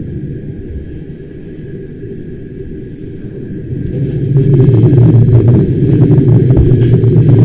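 Bernina Express train running along the track: a steady low rumble that grows louder about four seconds in, joined by a rapid, uneven clatter of small clicks.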